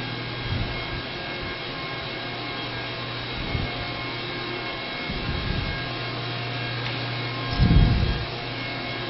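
A steady low hum with faint steady tones above it, broken by a few short low thumps, the loudest about three-quarters of the way through.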